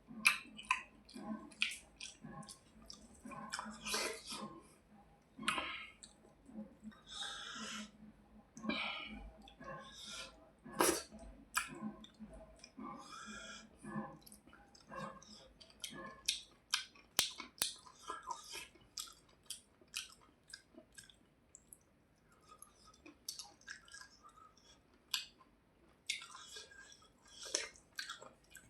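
A person chewing mouthfuls of rice and hilsa fish close to the microphone, with many short wet clicks and mouth noises in irregular bursts, easing off briefly about two-thirds of the way through.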